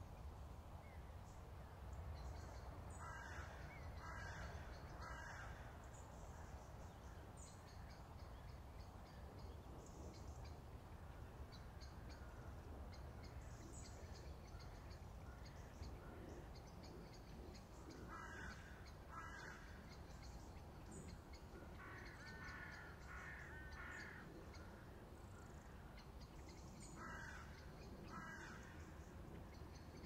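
Faint bird calls, short calls coming in groups of two or three about a second apart, over a low steady background rumble of outdoor ambience.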